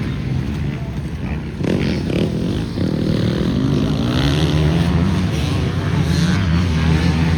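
Motocross motorcycle engines running and revving, one rising in pitch about three seconds in and growing louder.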